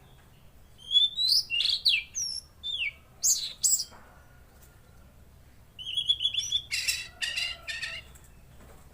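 Tledekan laut songbird singing in two bursts of rapid chirps and short whistled notes, the first about a second in and the second near six seconds, each lasting two to three seconds.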